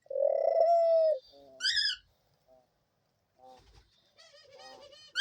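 Pet dove cooing: one long, steady coo in the first second, a brief higher-pitched call, then softer, shorter coos near the end. It is a female's repeated cooing, which the owner takes for pining for a mate.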